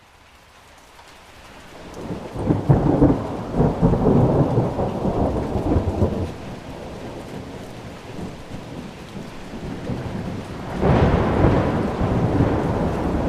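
Thunder over steady rain: a long rolling rumble that builds over the first few seconds and slowly dies away, then a second, more sudden peal about eleven seconds in.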